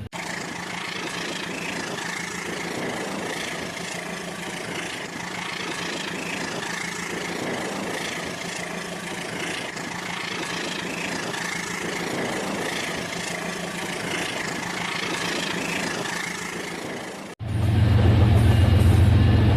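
Rail King toy train running steadily on its track, a small electric motor and wheels giving an even mechanical whir. About 17 seconds in, the sound cuts abruptly to a louder recording dominated by a deep hum.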